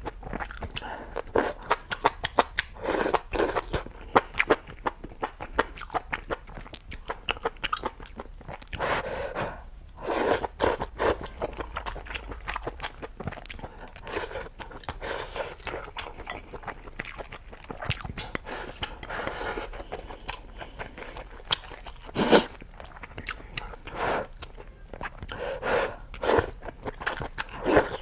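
A person chewing and biting food close to the microphone: an irregular run of wet mouth clicks and crunches.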